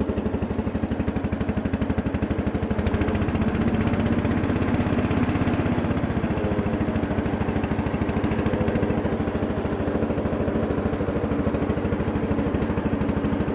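Bolens 1256 garden tractor engine running steadily at idle with an even, rapid firing beat, just after a cold start.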